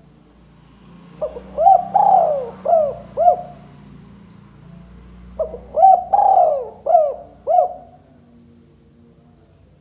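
Spotted dove (tekukur) cooing: two phrases about four seconds apart, each of about five coos that rise and fall in pitch, with a longer drawn-out coo in the middle of each phrase.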